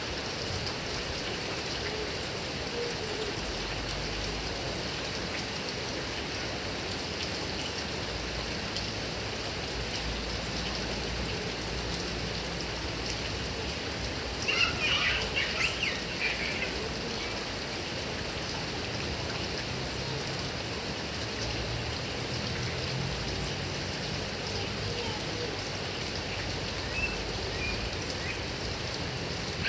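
Heavy rain falling steadily on grass and coconut palms, an even hiss of rain. About halfway through there is a brief, louder burst of high-pitched sound.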